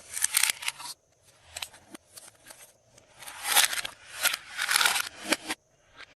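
Glossy slime being squished and stretched by hand, making sticky crackling squelches. They come in bursts, the longest and loudest in the second half.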